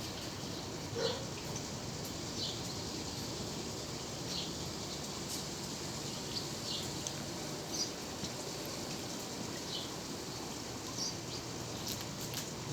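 Wind blowing steadily, an even rushing noise, with short high chirps dotted through it every second or so.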